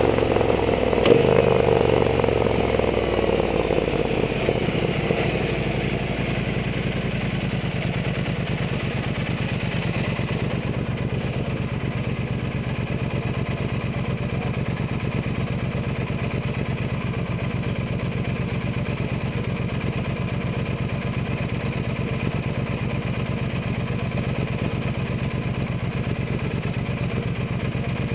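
Triumph Bonneville T120 parallel-twin engine through a Zard aftermarket exhaust, its note falling as the bike slows over the first several seconds. It then settles into a steady, even idle. There is a brief sharp click about a second in.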